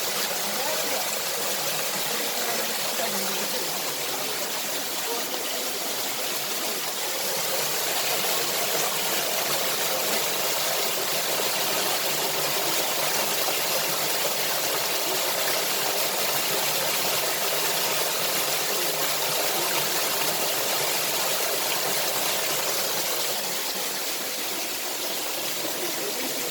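Waterfall water rushing and splashing, a steady even hiss.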